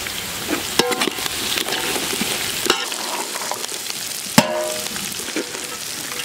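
Onions, green chillies, peas and diced carrots sizzling in oil and ghee in a large metal pot, stirred with a metal ladle that knocks against the pot several times, the loudest clank a little past four seconds in.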